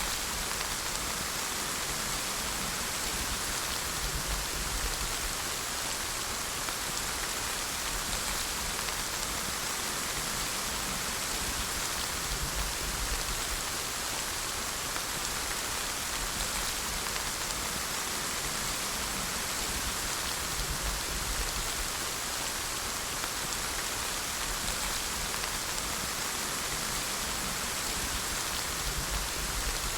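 Steady, dense rainfall, an even hiss of many drops. A low rumble swells briefly about every eight seconds.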